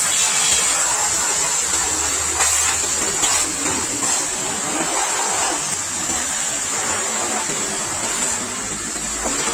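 Pressure washer spraying water on a motorcycle: a steady hiss of the jet over the washer's running pump.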